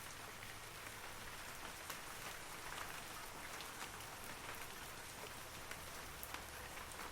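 Steady rain falling, an even hiss with many small, distinct drops pattering throughout.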